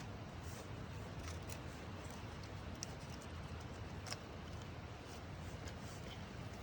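Campfire burning: a low, steady rush with scattered sharp crackles and pops.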